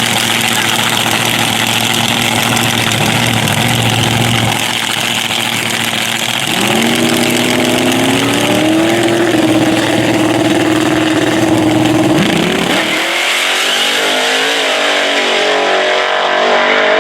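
Drag racing car engine at a no-prep drag strip, revving up about six seconds in and holding steady at high revs for several seconds. The sound changes abruptly about thirteen seconds in.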